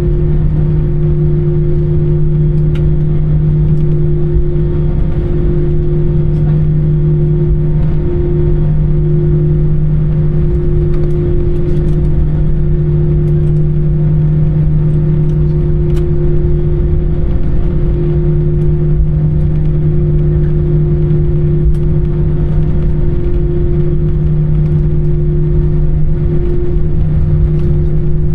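Airbus A320 engine noise heard inside the cabin from a window seat: a loud, steady drone with two held tones over a low rumble.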